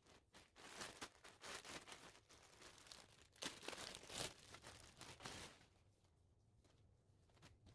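Packaging being crinkled and torn open in a quick run of rustling and crackling that stops about two seconds before the end.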